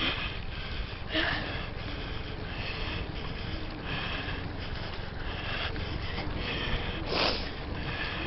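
A cyclist breathing hard through the nose while pedalling, with breaths about once a second and two louder sniffs, one about a second in and one near the end, over a low wind rumble on the microphone.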